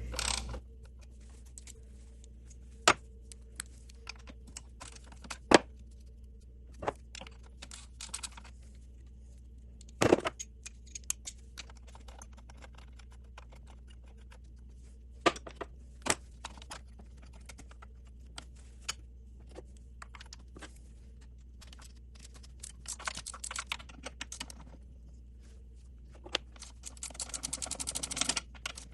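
Hand tools working on an engine's thermostat housing nuts: scattered sharp metallic clicks and knocks, with stretches of rapid clicking near the end, typical of a socket wrench ratcheting.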